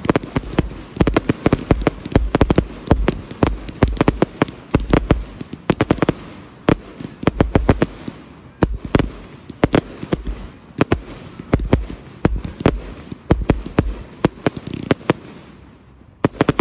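Fireworks display: rapid volleys of sharp bangs, several a second, with crackle in between. The barrage thins out near the end.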